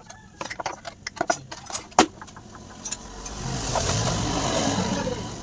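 Several light clicks and knocks, then an engine sound that swells for about two seconds and fades.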